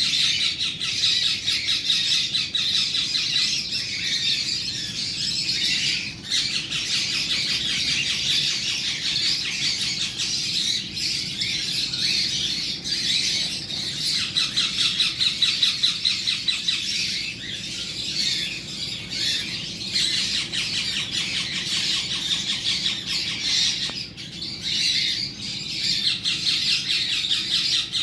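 Green parrot squawking and chattering without a break: rapid, harsh, closely repeated calls, high-pitched, with only a couple of brief dips.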